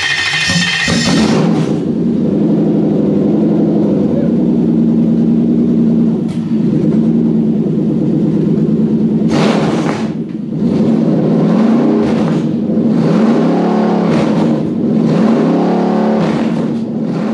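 Toyota 3UZ V8 running on its first fire-up on a freshly made Link ECU wiring loom. It flares high as it catches, settles into a steady idle, then is blipped on the throttle several times in the second half, the revs rising and falling.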